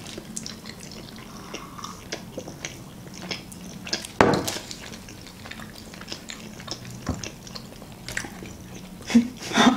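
Close mouth sounds of people chewing sticky sour fruit leather (pastila): scattered small wet clicks and smacks, with a sharper click about four seconds in and a few more near the end.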